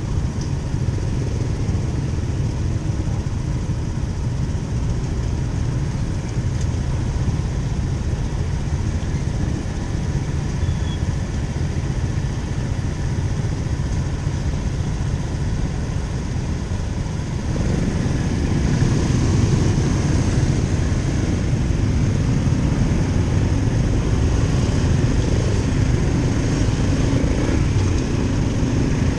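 Motorcycle running on the road: a steady low rumble that grows louder about two-thirds of the way through.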